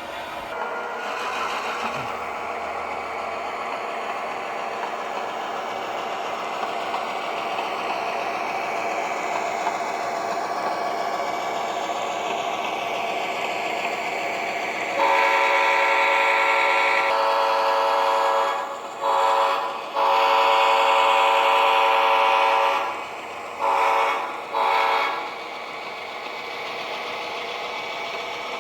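Model diesel locomotive's sound decoder running, a steady engine sound, then its horn sounding five blasts about halfway through: long, short, long, short, short.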